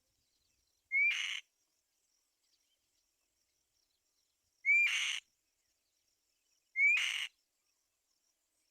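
Black-winged kite calling three times, each call a short rising whistle that breaks into a harsh, raspy screech.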